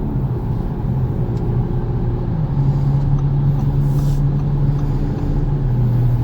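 Audi S5 Sportback's turbocharged V6 heard from inside the cabin at highway speed, over steady road noise. The engine note steps up about two seconds in as it pulls harder, then drops back near the end.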